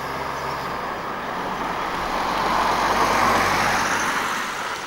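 A road vehicle passing close by: engine and tyre noise that swells to a peak about three seconds in, then fades.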